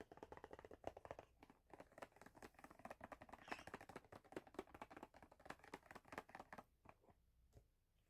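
Fast, dense tapping on a bookmark, many light taps a second, thinning to a few scattered taps near the end.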